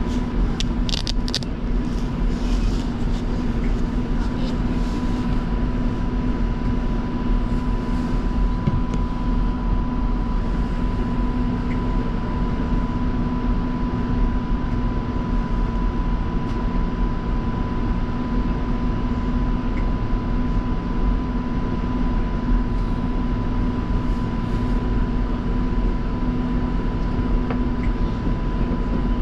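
Light rail train running between stations, heard from inside the car: a steady low rumble of wheels on track with a constant two-tone motor hum, and a few light clicks and rattles in the first few seconds.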